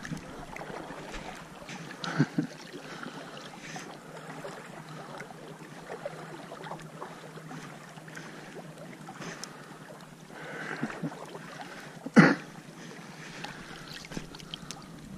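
Wind and water lapping against a boat or blind, with a few small knocks and one sharp knock about twelve seconds in.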